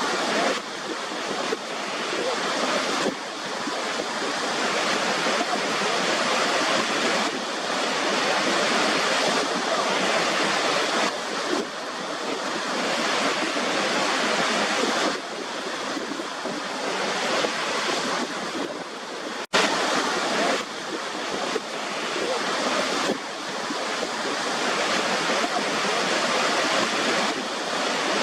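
Waterfall: a steady rush of falling water with slow swells in level. It cuts out for an instant a little past two-thirds of the way through, then carries on.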